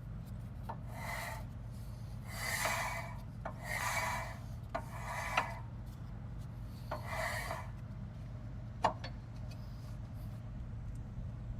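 Hand tool working on metal car parts: about five short rasping strokes with a sharp click or two in between, over a steady low hum.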